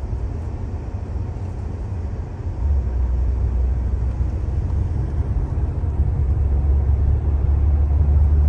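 Car road noise while driving: a steady low rumble that steps up in level about two and a half seconds in.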